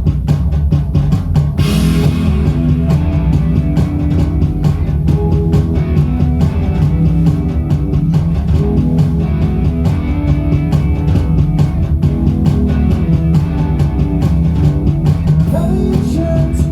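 Rock band playing an instrumental passage: drum kit at first, then about a second and a half in the guitars and bass come in and the full band carries on with a steady beat.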